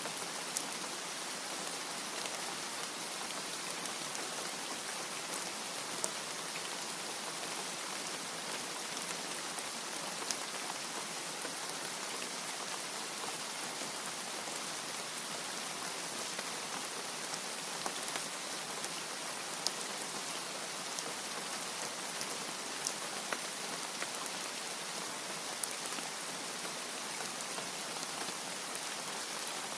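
Steady rain, an even hiss with nothing low in it, dotted with a dozen or so sharp single ticks of nearby drops landing. No thunder.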